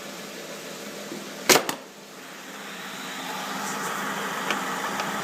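Jeep Wrangler's 3.6 liter Pentastar V6 idling steadily, growing louder over the second half. A sharp double knock about one and a half seconds in is the loudest moment.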